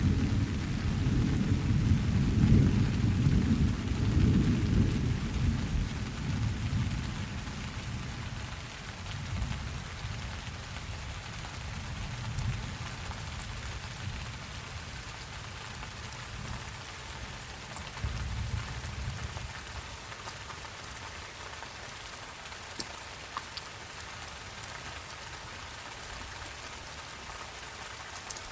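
Steady rain with a long low rumble of thunder that dies away over the first several seconds. Weaker rumbles swell briefly twice around the middle, then only the even hiss of the rain remains.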